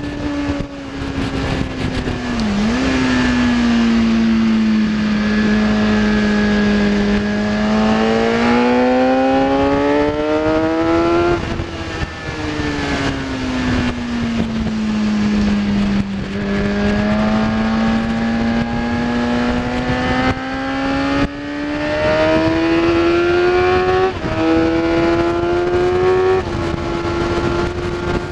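Kawasaki ZX10R's inline-four engine at speed on track, over a constant rush of wind. The revs sink off the throttle, then climb hard under acceleration, twice. The pitch drops sharply at each upshift, about a third of the way in and again twice near the end.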